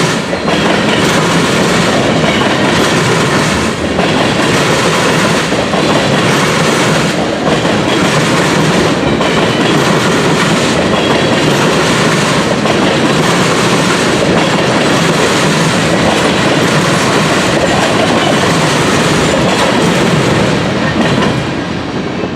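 Train cars rolling past, loud and steady, with wheels clicking over rail joints about once every two seconds.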